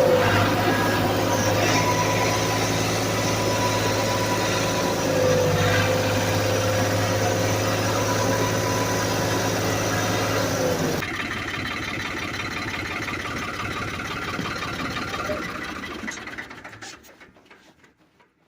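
Tractor engine running steadily with a whine on top. About two-thirds of the way in the whine stops and the engine note drops lower, then the engine sound dies away over the last few seconds.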